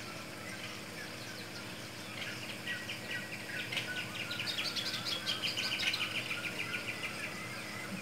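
A bird calling in a fast trilled series of short high notes, about seven a second. The series starts about two seconds in, grows loudest in the middle and fades out near the end, over a steady low background hum.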